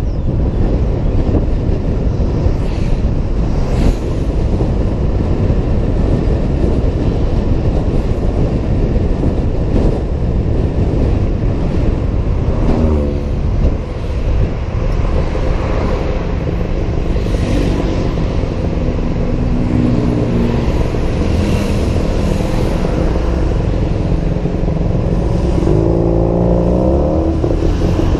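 Heavy wind buffeting on a helmet-mounted camera while riding a scooter in traffic, mixed with engine noise. An engine changes pitch about halfway through and rises in pitch near the end as a vehicle speeds up.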